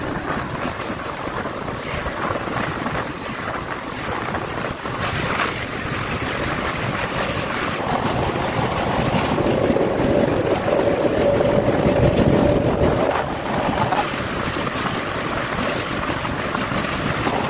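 Passenger train running at speed across a steel truss bridge, heard from an open door: a steady roar of wheels on rails mixed with wind rushing past. It grows louder toward the middle, where a sustained tone sounds for a few seconds.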